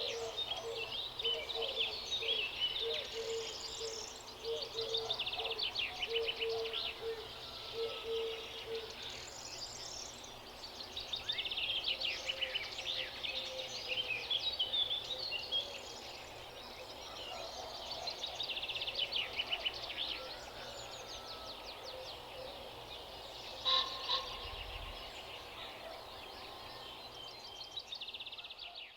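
Dense chorus of small songbirds chirping and trilling over one another, with a lower call repeating in quick pulses under them for the first third. The sound fades out at the end.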